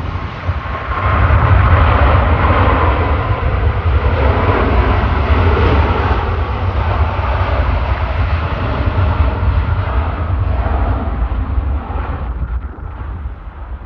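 Jet airliner passing close by on landing or takeoff: a loud engine rumble with a broad hiss, swelling about a second in, holding for about ten seconds, then fading near the end.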